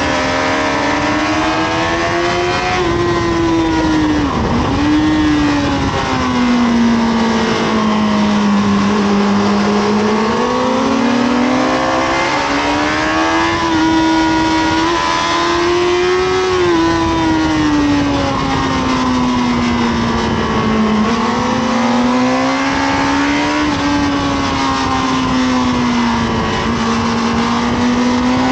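Honda CBR1000RR SC57's inline-four engine heard on board at track speed. Its pitch climbs and drops again and again as the bike accelerates and slows through corners, over a steady rush of wind.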